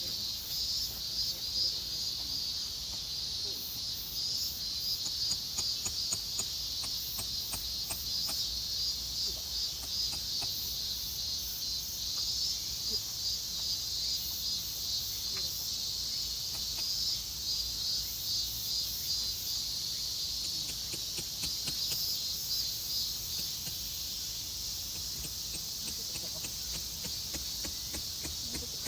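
A dense chorus of insects shrilling steadily, with a fast, even pulsing in the high notes. A few faint clicks come through underneath.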